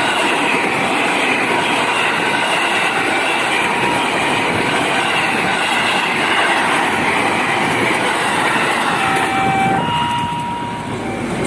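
A train running past at close range: the steady noise of its wheels on the rails, with a few faint steady tones over it.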